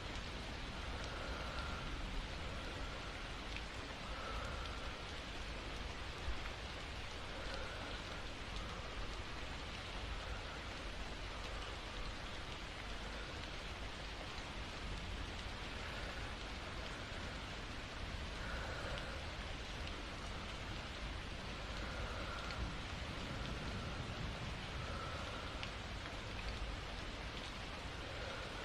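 Steady rain falling, an even hiss with no thunder, and faint soft sounds recurring every two to three seconds under it.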